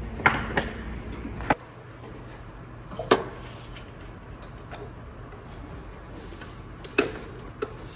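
Hand tools clinking and knocking on metal in an engine bay while a wrench loosens the throttle cable's jam nuts: a handful of sharp separate clicks, the loudest about three seconds and seven seconds in. A low steady hum cuts off about a second and a half in.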